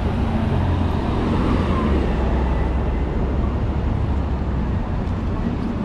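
City street traffic: a steady low rumble of vehicle engines with road noise.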